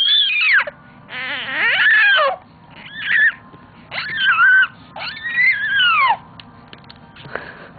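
A 4½-month-old baby making a run of about five high-pitched squealing calls, each sliding up and down in pitch, with short pauses between them.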